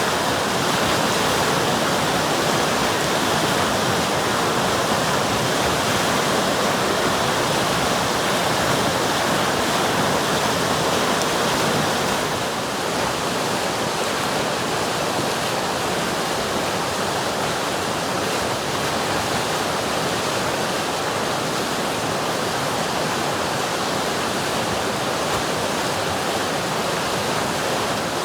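River water rushing and splashing in a steady, dense roar of white noise, dipping slightly in level about twelve seconds in.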